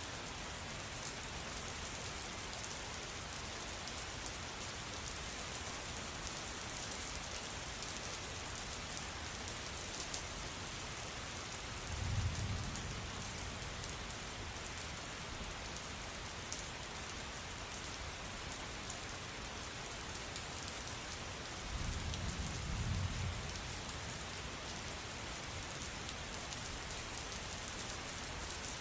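Steady rain falling, with fine drops pattering throughout. Two low rumbles of thunder swell and fade, about twelve seconds in and again about twenty-two seconds in.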